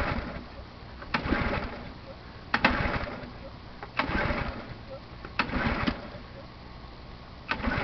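Pressure washer's small gasoline engine being cranked by hand on its recoil pull-cord, about five pulls, one every second and a half or so, each a sharp click and a short rush of cranking. The engine does not catch: a cold start after months of storage with fogging oil in the cylinder.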